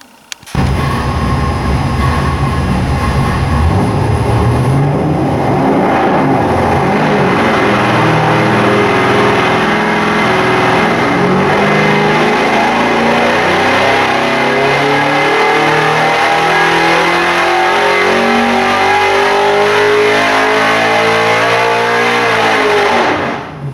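363 cubic inch stroker small-block Ford V8 making a dyno pull. It runs at full load and rises steadily in revs over many seconds, then falls off sharply near the end.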